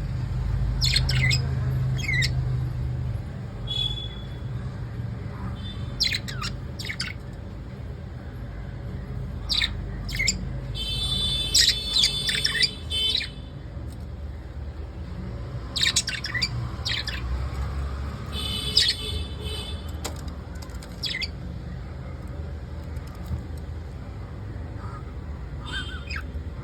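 Pet lovebirds calling: sharp squawks and chirps at irregular intervals, with bursts of rapid chattering about eleven seconds in and again around seventeen seconds. A steady low hum runs underneath.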